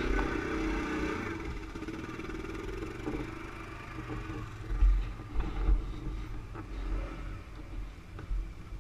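ATV engine running under way, its note steady, with heavy low thumps about five to six seconds in.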